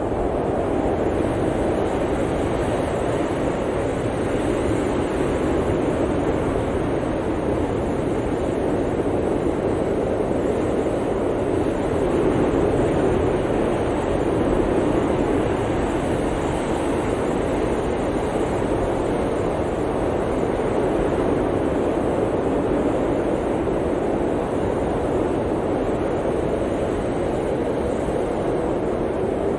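Blizzard wind blowing steadily, a dense rushing noise that swells a little around the middle.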